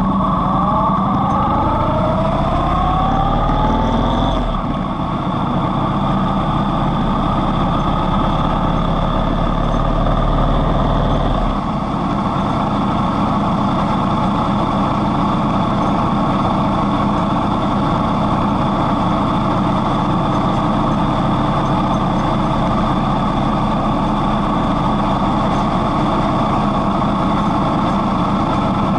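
Yamaha MT-01's air-cooled V-twin engine pulling away and accelerating, its revs rising several times through the gears over the first few seconds. It then runs on steadily at a cruising speed of about 50 km/h, with a deep rumble that eases off at around twelve seconds.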